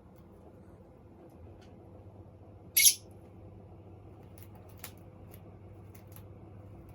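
A lovebird gives one short, sharp, high chirp about three seconds in, with a few faint light ticks around it.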